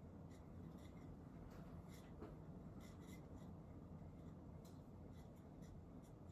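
Casablanca Zephyr ceiling fan running at speed 5: a faint, steady low hum and rush of moving air. Light, irregular ticks sound over it several times a second.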